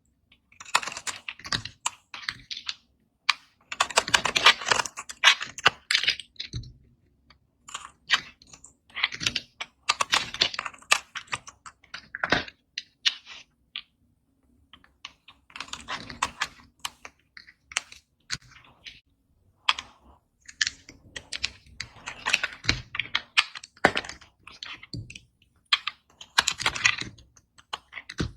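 Dry bar soap being cut with a blade: crisp crackling and scraping in repeated bursts of a second or a few seconds, with single sharp clicks and short pauses between cuts.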